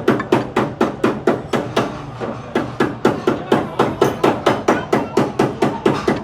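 Rapid, evenly paced hammer blows, about four a second, struck steadily during suspension repair work on a car.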